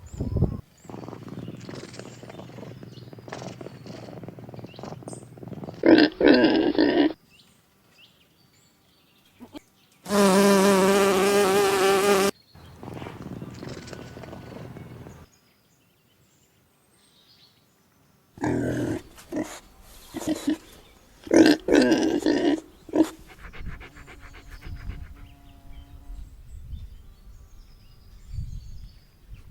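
A run of separate domestic animal calls with short silent gaps between them. The loudest is a long, wavering pitched cry of about two seconds, about ten seconds in.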